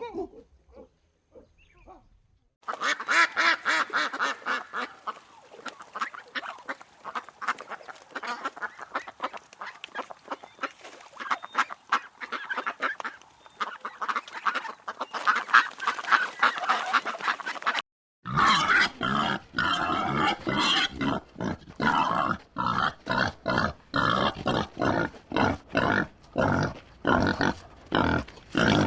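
A flock of waterfowl calling, many calls overlapping in a dense chorus. About eighteen seconds in, it cuts sharply to a different recording of rapid, repeated animal calls, several a second.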